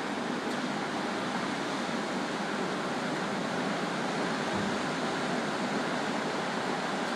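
Ocean surf washing onto a beach, a steady hiss of breaking water with no distinct single waves.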